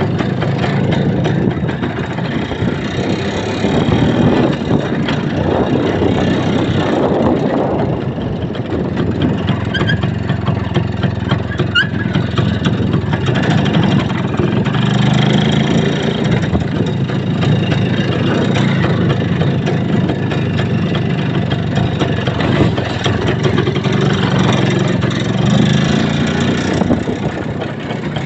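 A motor vehicle's engine running continuously while travelling, its low drone swelling louder several times as the revs rise and fall.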